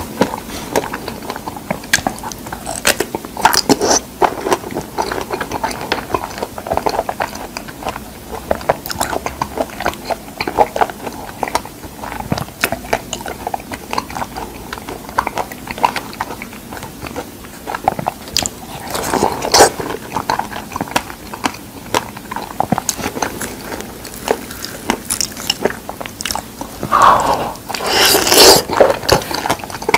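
A person chewing and biting fresh figs close to the microphone: a steady run of small clicking mouth sounds, with louder bites about two-thirds of the way through and again near the end.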